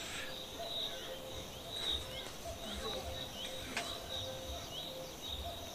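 A bird repeating a short high chirp with a downward flick, about twice a second, over a faint steady drone. A single sharp click sounds near the middle.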